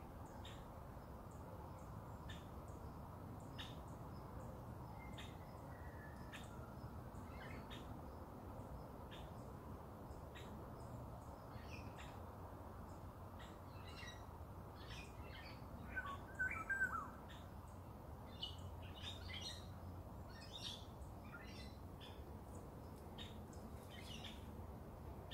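Wild songbirds calling: short, high chirps repeating on and off throughout, with a louder burst of calls about sixteen seconds in, over a faint steady background hiss.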